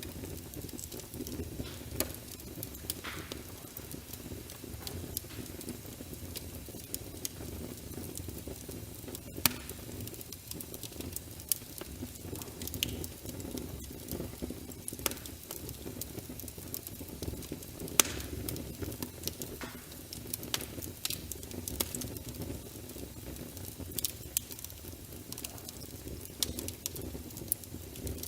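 Wood fire in a fireplace burning with a steady low rumble of flames and irregular crackles and sharp pops; the loudest pops come about nine and eighteen seconds in.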